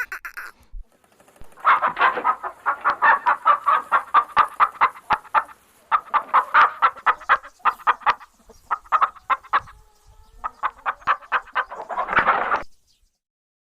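Domestic fowl calling in fast runs of short, repeated calls, about eight a second, in four bursts, the last cutting off near the end.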